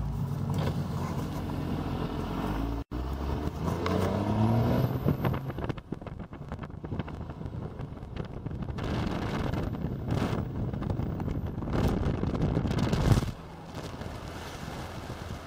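1997 Dodge Ram's 5.9 Cummins 12-valve turbo diesel running under way, its engine note climbing a few seconds in as it pulls. A high turbocharger whistle rises and falls twice.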